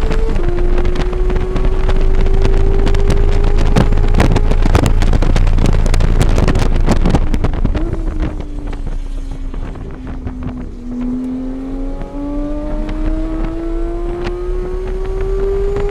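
Engine of a vehicle lapping a race track at speed. The revs drop at a shift just after the start and then climb steadily, fall away as it slows about halfway through, and climb again through another shift. Heavy wind buffeting on the microphone while it is fastest.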